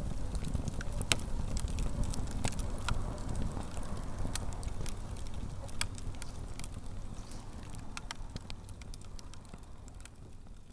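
Wood bonfire burning: sharp pops and crackles at irregular intervals over a steady low rumble, growing fainter toward the end.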